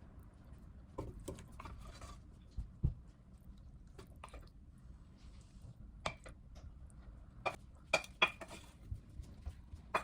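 Dishes and cutlery clattering, with irregular knocks and a run of sharper ringing clinks around the middle of the stretch.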